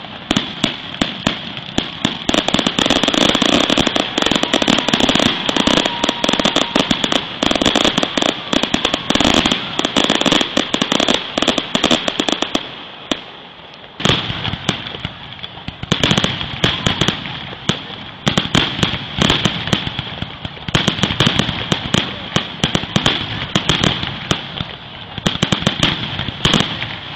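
Fireworks finale barrage: a dense, rapid run of bangs and crackling from bursting shells. It thins out for a moment just before halfway, then starts up again abruptly.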